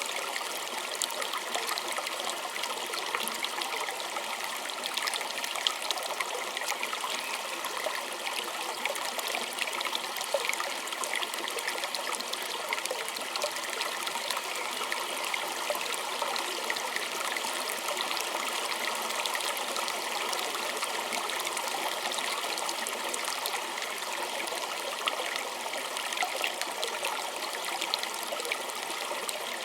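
A small creek trickling and splashing over stones: a steady rush of water with many small droplet splashes and gurgles.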